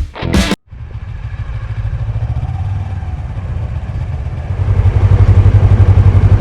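Suzuki V-Strom 250 (DL250) parallel-twin motorcycle engine running with a low, even pulsing beat, getting clearly louder about four and a half seconds in.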